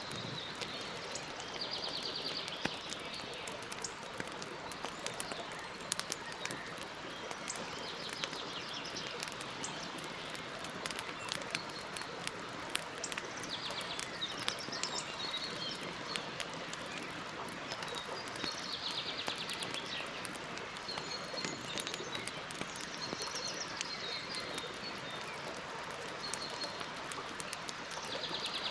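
Campfire crackling and popping over a steady hiss, while a bird sings short rapid trills every five or six seconds.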